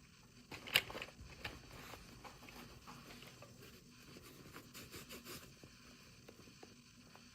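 Hands handling toy packaging and small miniature toys: scattered light taps, clicks and rustling, with one sharper click about a second in.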